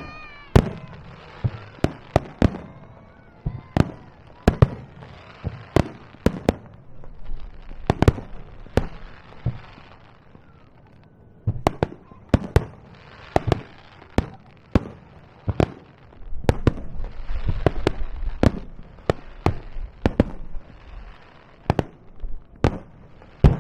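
Aerial fireworks shells bursting in quick succession: dozens of sharp booms at irregular intervals, with crackling in between and a denser low rumble of overlapping bursts about two-thirds of the way through.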